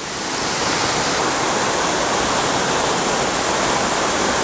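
Small waterfall pouring into a pool below: a steady rush of falling water that swells over the first second, then holds even.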